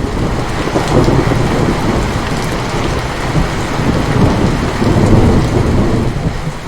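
Heavy rain falling steadily, with a long low rumble of thunder that eases briefly near the end.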